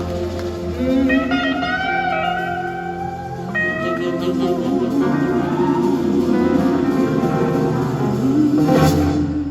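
Band playing a blues-soul instrumental passage, led by an electric slide guitar that glides between notes over bass and drums.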